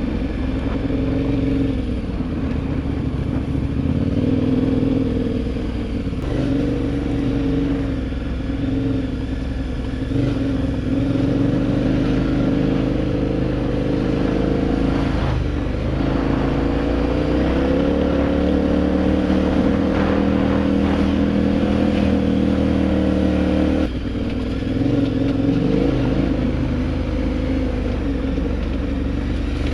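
Adventure motorcycle's engine running while riding, its pitch stepping up and down with throttle changes, with a brief dip about 24 seconds in.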